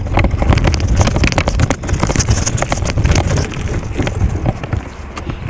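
Wind rumbling on the microphone of a camera carried on a moving bike, with a steady run of sharp clicks and rattles.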